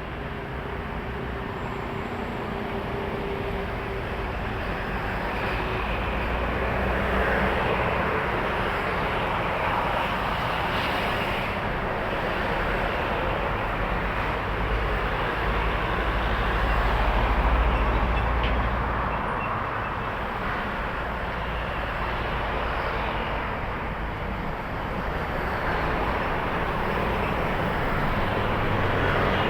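Heavy highway traffic of trucks going by: a continuous rush of tyres and diesel engines that swells as each vehicle passes, with the deepest, loudest rumble about two-thirds of the way through.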